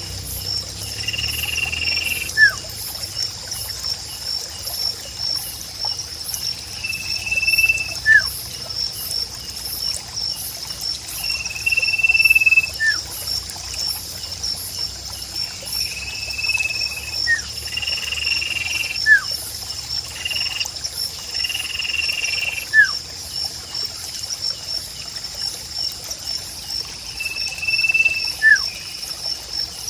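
Birdsong in a nature soundscape: about a second-long whistled note repeated every few seconds, with short, quick falling chirps that stand out loudest, about six of them. Underneath runs a constant high pulsing trill and a trickle of water.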